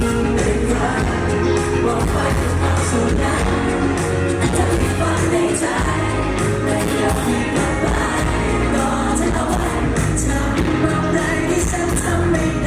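Live pop band performance: a singer over a full band with a steady, prominent bass line and drums.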